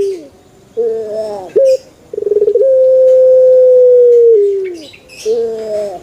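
Male puter (Barbary dove) cooing: a short two-note coo, then a long steady coo held about two seconds that drops in pitch at its end, then another short coo. Faint high chirps of small birds come between the coos.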